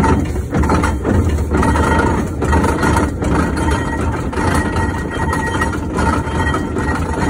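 1914 Fowler showman's steam engine running, a steady low rumble with recurring knocks and clanks of its machinery.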